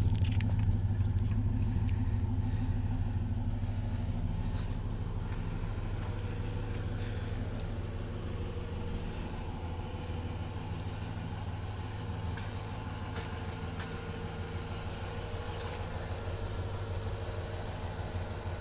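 The 1995 Chevrolet Impala SS's 5.7-litre LT1 V8 idling steadily, a low even hum that is loudest at first and slowly fades.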